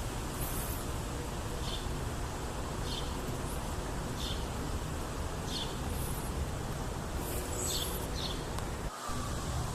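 Short, faint bird calls repeated about every one to one and a half seconds over a steady low background rumble. Near the end the sound cuts out briefly, and a faint gliding siren tone begins.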